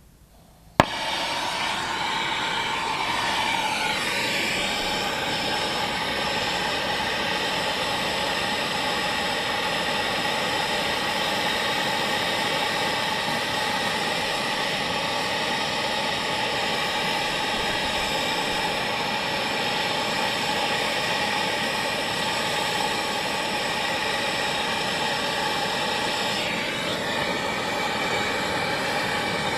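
Brazing torch lit with a sharp click, then a steady, loud hissing roar of the flame, with its pitch shifting briefly as the flame is adjusted, heating copper refrigerant line.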